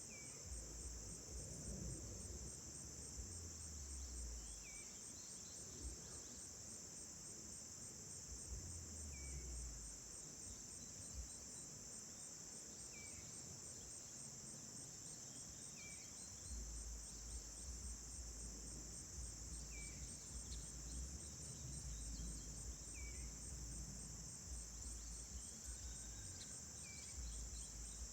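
Steady high-pitched chorus of crickets or similar insects, with a faint short chirp every few seconds and a low rumble that comes and goes.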